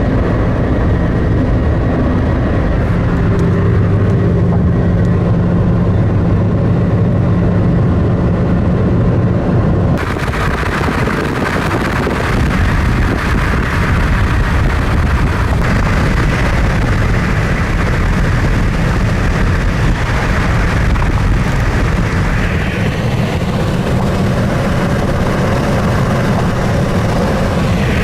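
Car driving with a steady low engine hum and road noise, then an abrupt cut about ten seconds in to a wide rushing noise of gusty storm wind.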